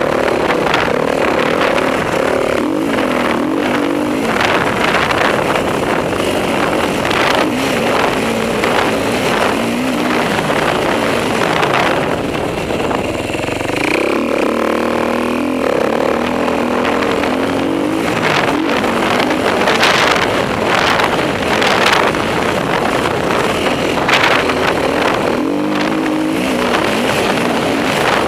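Dirt bike engine being ridden hard on a motocross track, its pitch rising and falling over and over as the rider accelerates, shifts and backs off. About halfway through the engine holds briefly at a steadier note.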